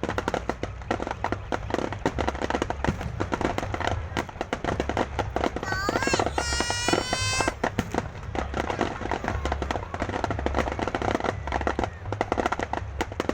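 Fireworks display: dense, continuous crackling and popping bangs, with a brief high whistle about six seconds in.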